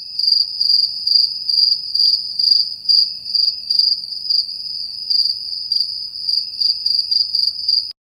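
Crickets chirping: one high, continuous trill that swells in pulses about two or three times a second.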